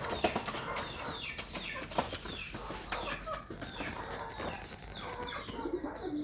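Birds calling: many short, high, falling chirps and clucks repeated throughout, with pigeons cooing low near the end.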